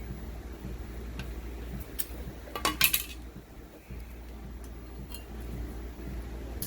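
Metal objects clinking and rattling: a few scattered light clicks and a short burst of clinks about two and a half seconds in, over a steady low hum.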